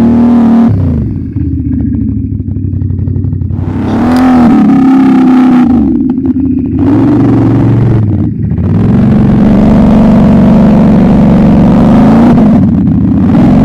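ATV engine revving hard, easing off about a second in and climbing back around four seconds, with short dips before running high and steady through the second half.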